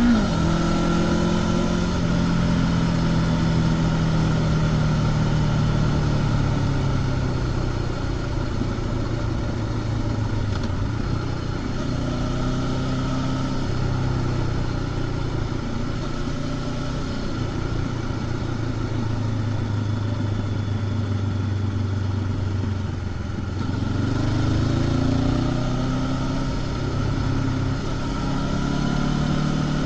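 Honda CB500X parallel-twin engine through its stock exhaust, heard from the rider's seat while riding a mountain road. The engine note sinks slowly as the revs drop, runs lower and steady for a while, then rises as the bike accelerates about three-quarters of the way through before levelling off.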